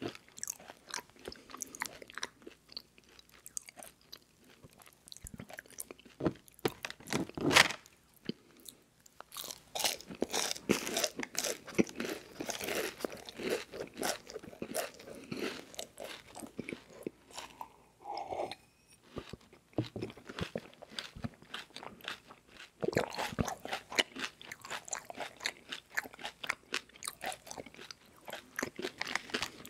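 Close-miked chewing of crispy rice marshmallow treats: a run of crunchy bites and chews with a few short pauses, the loudest crunch about seven and a half seconds in.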